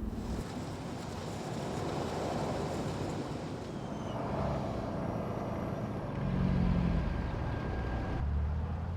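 Car engines running, with a steady rushing hiss; the sound swells about two-thirds of the way in and changes abruptly near the end.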